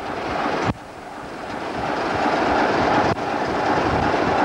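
Train running along the track, a steady rumbling noise that breaks off abruptly under a second in, then grows louder again.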